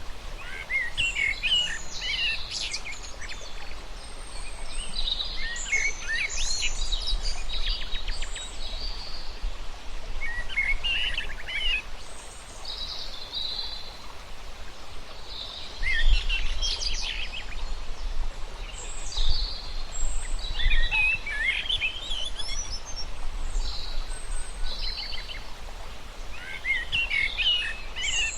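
Several birds singing and calling in bursts of quick high chirps and trills every few seconds, over a low steady rumble.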